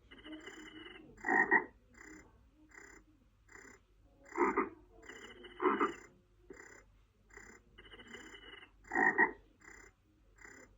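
Frogs croaking in a steady rhythmic chorus, calls repeating about twice a second with a faint high chirp above them, and four louder croaks standing out.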